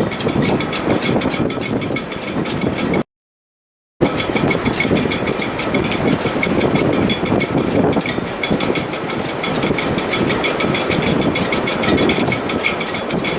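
Strong gale wind in a sailboat's shrouds and rigging: a loud, steady rush with a thin whistle over it. The sound cuts out completely for about a second, three seconds in.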